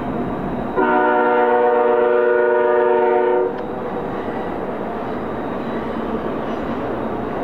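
Diesel freight locomotive's air horn sounding one long steady chord-like blast of nearly three seconds, starting about a second in and cutting off sharply, over the continuous running noise of the train.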